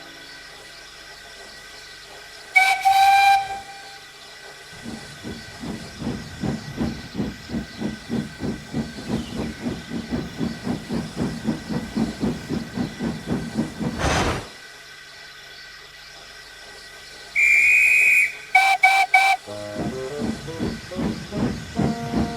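Steam locomotive sounds: a short whistle, then a steady run of chuffs at about three a second, ending in a brief sharp burst. A higher whistle blast follows, then three quick toots.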